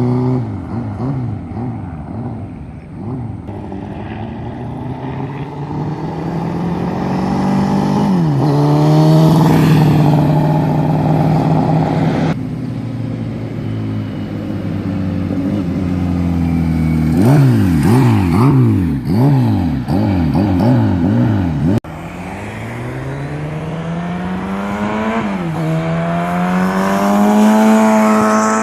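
Kawasaki Z1R-TC 1000 Turbo's turbocharged air-cooled inline-four engine revving. Quick repeated throttle blips come in the middle, and later a long pull that rises in pitch, drops once at a gear change, then climbs again. The sound jumps abruptly twice where separate takes are joined.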